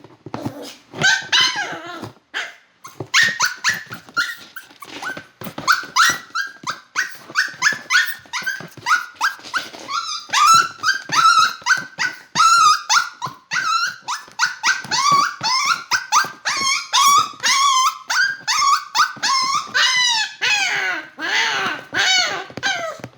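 Small dog, a poodle, barking and yelping in a long run of short, high-pitched calls, two or three a second, many of them bending in pitch.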